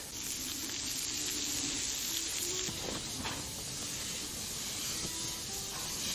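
Beef steak sizzling on a hot griddle: a steady frying hiss that drops back a little after about three seconds.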